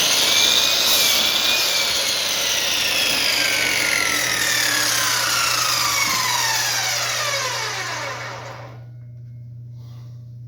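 Electric chop saw switched on and released: the motor whirs up to speed, then the blade coasts down, its whine falling steadily in pitch for about eight seconds until it dies away. The repaired saw now spins freely.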